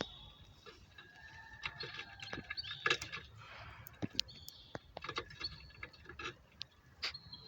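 Caged finches calling: short, high whistled chirps, some held for a moment, scattered throughout, with light clicks and taps in between.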